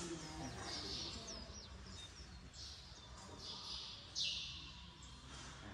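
Small birds chirping in short high calls, some gliding in pitch, with a louder call about four seconds in.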